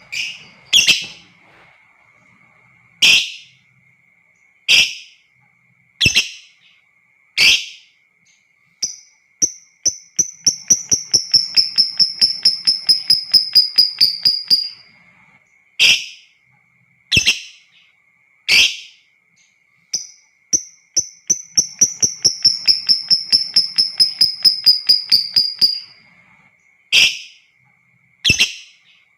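Lovebird giving sharp single screeching calls about every second and a half, broken twice by a long rapid chattering trill ("ngekek") of about five seconds, its pitch sliding slightly down. A faint steady high tone runs underneath.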